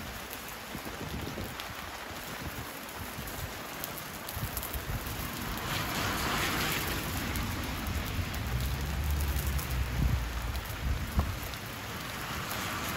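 Steady hiss of rain falling, with sausages sizzling in a small pan over a wood fire. The hiss swells briefly about six seconds in, and a couple of sharp pops come from the fire near the end.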